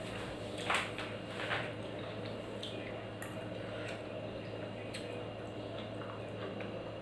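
Close-up eating sounds: wet chewing and smacking of rice and curry eaten by hand, with two louder wet smacks about a second in and a few faint clicks later. A steady low hum runs underneath.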